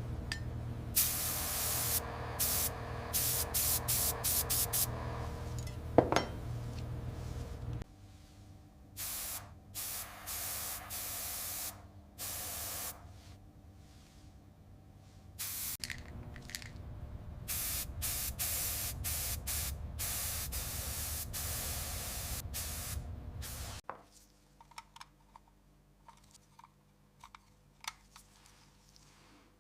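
Repeated bursts of spraying hiss, each started and cut off sharply, over a steady low hum. The hum stops about eight seconds in, comes back around sixteen seconds and stops again near twenty-four seconds. Only faint scattered ticks follow.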